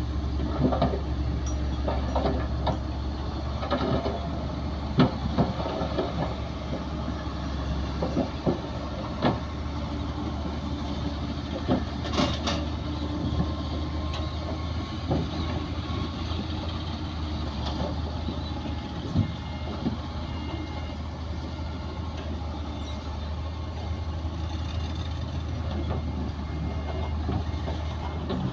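Bulldozer's diesel engine running steadily under a low hum, with scattered sharp metallic clanks and knocks from the machine at work, and a louder clank right at the end.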